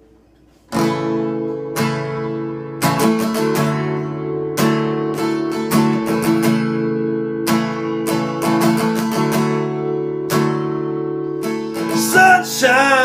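Solo acoustic guitar strumming chords in a slow rhythm, starting about a second in after a quiet moment. A man's singing voice comes in near the end.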